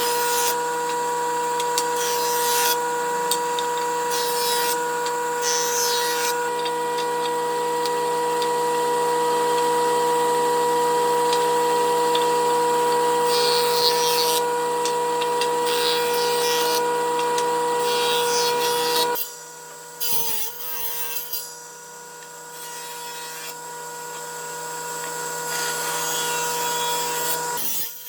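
Electric woodworking power tool running with a steady high whine as it cuts or sands oak, with scraping noise over the hum. About two-thirds of the way through it suddenly drops to a much quieter running sound, which picks up again before the end.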